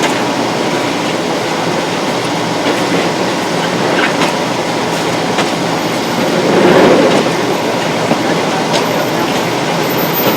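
CH-47 Chinook tandem-rotor helicopter running, a loud, steady rotor and turbine noise.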